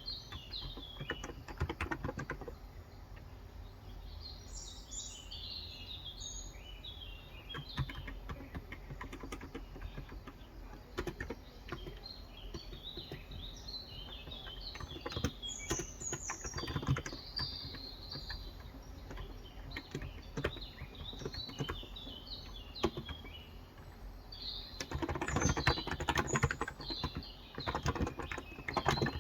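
Typing on a COX Endeavor electro-capacitive (Topre-style) tenkeyless keyboard with 35 g switches, in bursts of keystrokes, the densest run near the end. Small birds chirp in the background.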